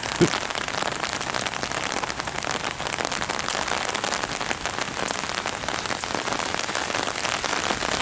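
Steady rain falling on an umbrella overhead, many individual drops ticking close by. There is a short low sound just after the start.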